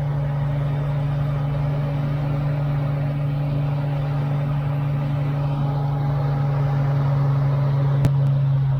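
Diamond DA-20 light aircraft's 100-horsepower piston engine and propeller droning steadily in cruise, heard from inside the cockpit. A single sharp click sounds about eight seconds in.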